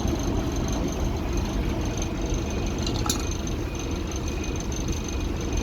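A heavy engine running steadily, as of construction machinery on a concrete pour, with a brief click about three seconds in.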